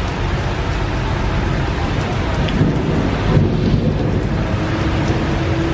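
Heavy rain falling steadily, with a deep rumble swelling in the middle. A steady low hum comes in near the end.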